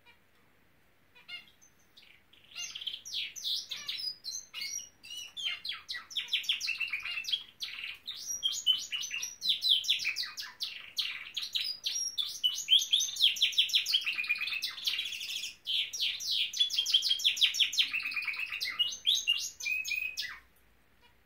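Norwich canary singing: a few short chirps, then a long unbroken song of fast trills and rolls that stops abruptly near the end.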